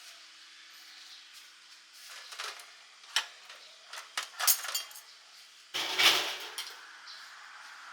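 Metal cookware and utensils clinking and clattering in irregular knocks, with a louder, longer scraping clatter about six seconds in.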